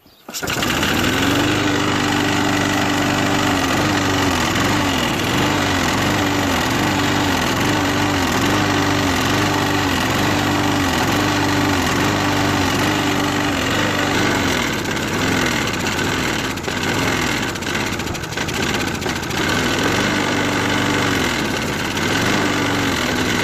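Push lawnmower engine catching suddenly and running with its air filter off, its revs surging up and down about once a second while a spray lubricant is fed into the carburettor intake. From about 14 seconds in it runs rougher and sags, then picks up again near the end, as the WD-40 left in the float bowl runs low.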